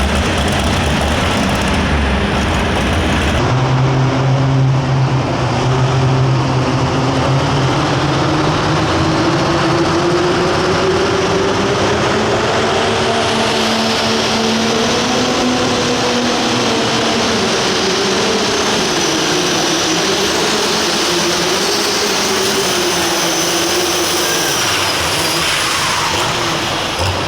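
Turbocharged diesel engine of a Light Limited Super Stock pulling tractor running flat out under load during a pull. A high turbo whistle climbs about halfway through and holds, then the revs fall away near the end.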